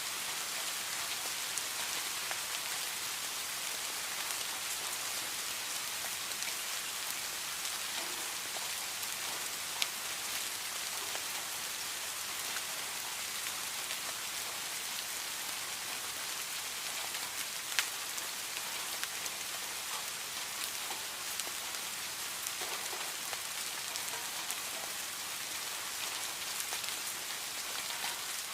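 Steady rain falling, an even hiss with scattered sharper drop ticks, two of them clearer than the rest.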